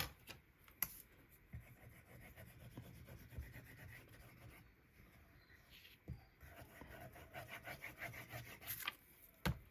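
Paper being rubbed and pressed down by hand onto a journal page, smoothing a freshly glued piece, with a couple of soft knocks near the start and the end.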